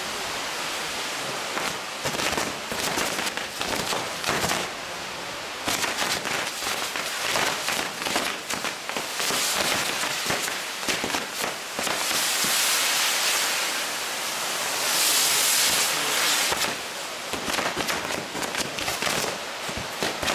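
Maltese ground-firework wheel spinning on its pole, its fountain jets hissing amid many sharp crackles and pops; the hiss swells louder twice in the second half.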